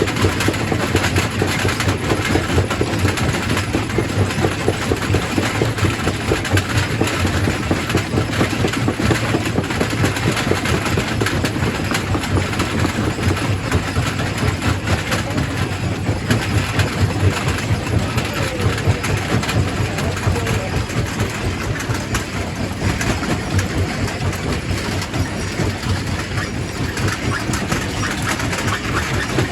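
Quarry primary rock crusher running and crushing stone: a steady low machine hum under continuous dense clatter and rattle of rock.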